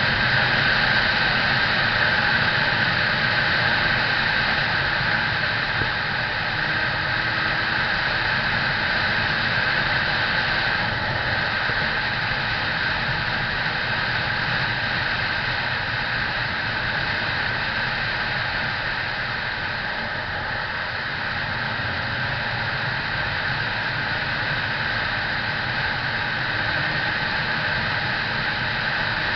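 Steady rushing noise of a moving motorcycle, with a low engine drone underneath.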